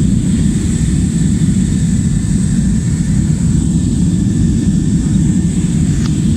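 Steady low rumble of an airliner in flight, heard from inside the passenger cabin, with a faint steady high whine above it.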